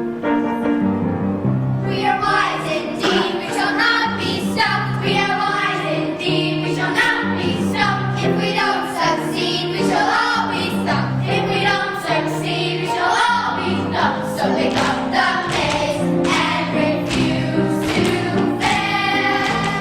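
A children's chorus singing a song from a stage musical, over instrumental accompaniment. The accompaniment plays alone at first, and the voices come in about two seconds in.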